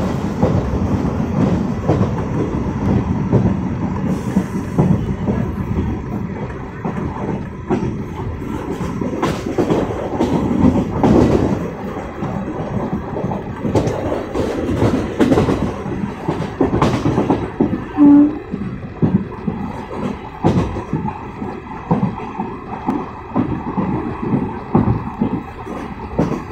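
Passenger train coach running at about 95 km/h, heard at an open window: a steady rumble of wheels on the rails and rushing air, with quick clicks of wheels over rail joints. A brief pitched tone sounds about two-thirds of the way through.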